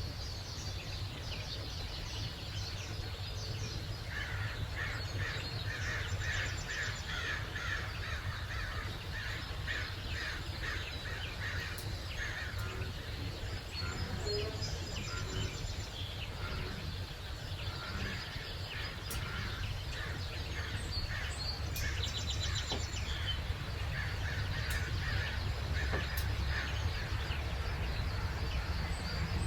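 Several wild birds calling and chirping in a morning chorus, with a dense run of repeated calls in the first half, over a steady low background rumble.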